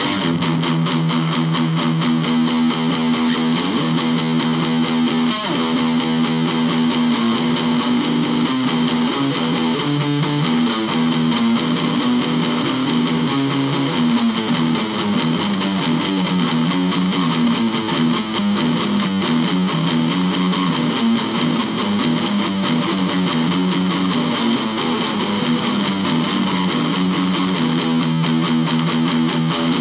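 Electric guitar playing continuously, with a steady loud level throughout.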